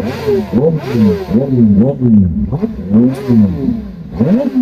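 Kawasaki ZX-10R's inline-four engine with an aftermarket SC-Project exhaust being revved in quick repeated throttle blips, the pitch rising and falling several times in a row. It is loud.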